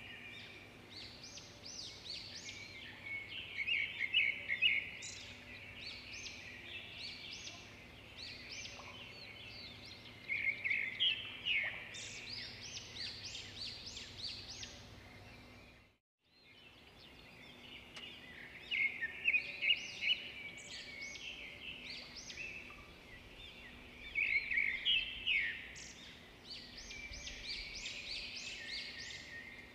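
Small birds chirping in quick clusters of repeated high calls over a steady low hum; everything cuts out for about a second around halfway through.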